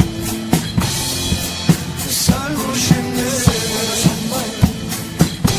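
Drum kit played along with a recorded pop song's instrumental backing: kick and snare strokes keep a steady beat over sustained accompaniment, with no singing.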